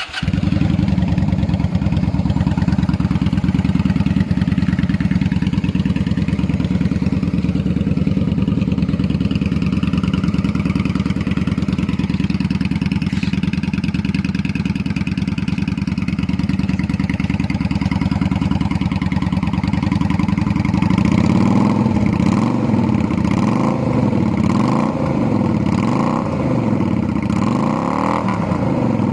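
Honda Shadow 400 V-twin motorcycle engine idling steadily, then revved repeatedly from about two-thirds of the way through. Each blip rises and falls in pitch, about one every second and a half.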